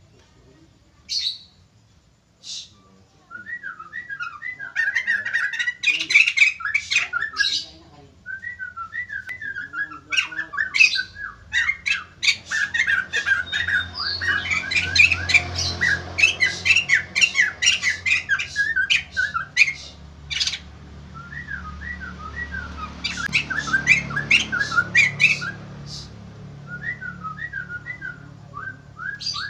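White-crested laughingthrush (poksay jambul) calling, in bursts of quick chattering notes mixed with sharp squawks. It starts a few seconds in and gets densest in the middle.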